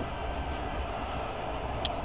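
Steady running rumble of a passenger train carriage in motion, heard from inside the car. A brief high click sounds near the end.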